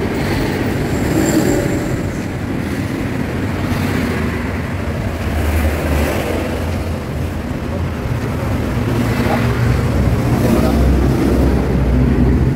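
Road traffic: motor vehicles running and passing, a continuous low engine rumble that swells twice, the second time near the end.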